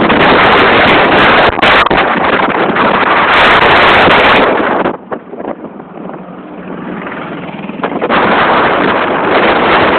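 Loud wind rushing and buffeting over a phone's microphone during a bike ride, easing off for about three seconds in the middle before returning.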